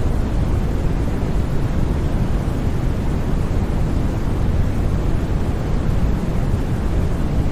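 Steady, unbroken synthetic noise made as a sleep sound: an even rush with most of its weight low and only a little hiss on top. It has no changes, tones or sudden sounds.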